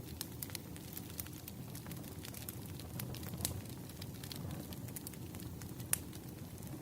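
Wood fire burning, with a steady low rumble and frequent small crackles and pops; one sharper pop near the end.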